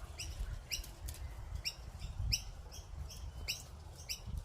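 A bird chirping repeatedly, short chirps about twice a second, each dipping slightly in pitch, over a low rumble of wind or handling noise.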